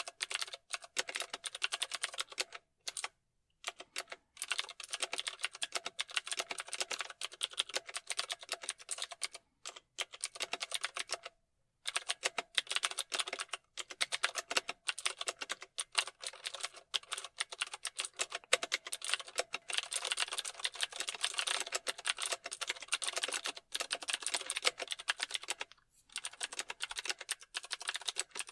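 Fast typing on a computer keyboard: dense runs of key clicks, broken by a few brief pauses in the first half.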